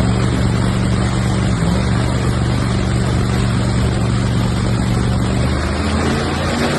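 Supercharged drag car engine running at a steady idle, loud, with a strong low hum; the note shifts slightly near the end.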